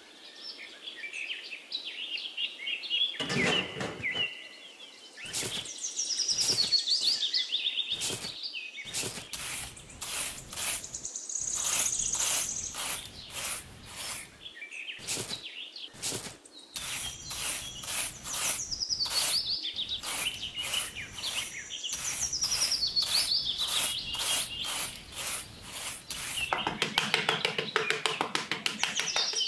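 Small birds chirping in repeated falling phrases, over a run of short scrapes and pats of a small metal trowel on sand.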